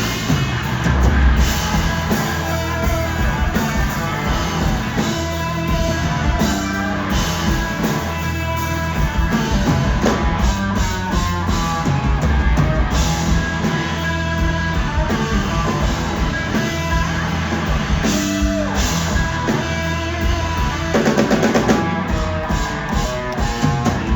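Live blues-rock band playing: electric guitar lines over a driving drum kit and bass.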